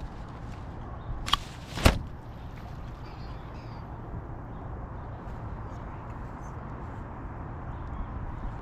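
Gulls calling faintly over a steady low background rumble, with two sharp knocks about half a second apart a little over a second in.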